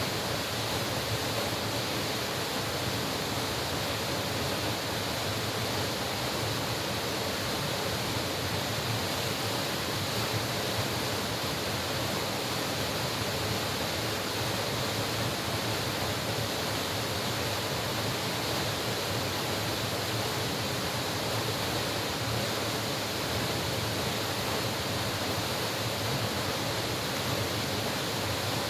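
Mountain valley stream water rushing steadily over rocks, an even, unbroken flow.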